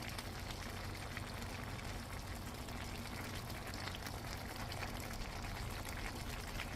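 Food cooking on the stove: a steady bubbling hiss with faint crackles over a low hum.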